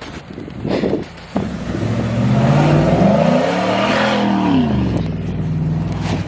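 Vehicle engine revving under acceleration: the pitch climbs for about two and a half seconds, then drops back and settles into a steady run.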